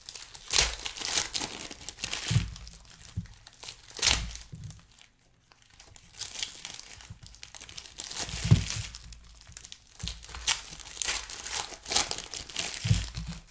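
Trading card pack wrappers being torn open and crumpled, in irregular crinkly bursts with a short pause about five seconds in.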